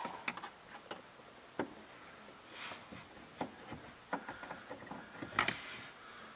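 Scattered, irregular clicks and light knocks of hand tools and plastic parts being handled while screws are taken out, the loudest a sharp knock about five seconds in.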